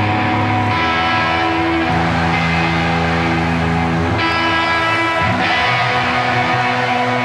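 Rock band playing live: an instrumental passage of guitar-led music with held chords that change every second or two.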